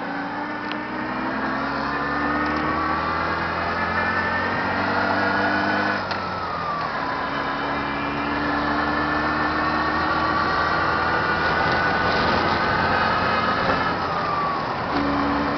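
Newly built car engine pulling under acceleration, its revs climbing steadily, dropping sharply at a gear change about six seconds in, then climbing again and dropping at another shift near the end.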